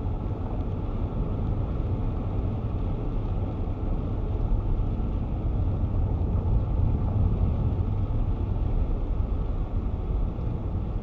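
Steady low rumble of a moving car heard from inside the cabin: tyre and engine noise with no change in pace.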